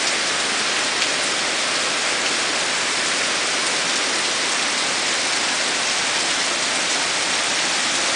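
Steady heavy rain falling on a garden, a dense even hiss with occasional sharper drop ticks.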